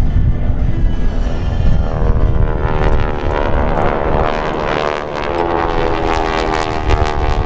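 Vintage T-6 Texan trainers passing overhead, their radial engines and propellers droning. The drone grows louder about two seconds in and is strongest in the second half.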